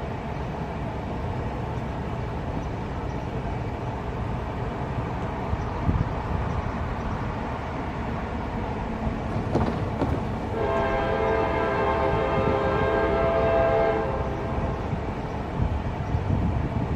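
CSX freight train's diesel locomotives and cars rumbling steadily, with the locomotive's air horn sounding one long chord for about three seconds, starting about ten seconds in.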